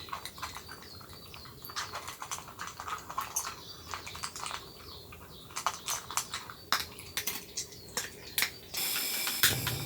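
Irregular light clicks and taps of small hard objects being handled, some with a brief ringing. Near the end a steady sound with a low hum and high steady tones sets in.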